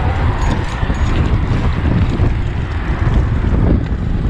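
Wind rushing over the microphone of a moving bicycle rider, a steady loud rumble.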